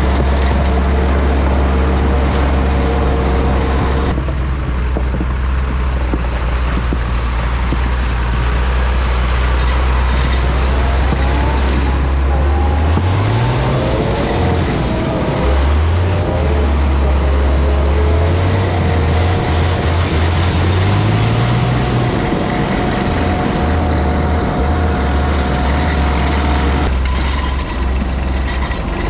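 1987 Ford L8000 turbo diesel engine running, revved up twice about halfway through with a high turbo whistle that climbs and falls with the revs, then dropping back to a steady run.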